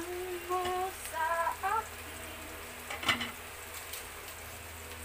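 Diced ginger and onion sizzling gently in melted butter in a wok, a low even hiss, with a single knock about three seconds in.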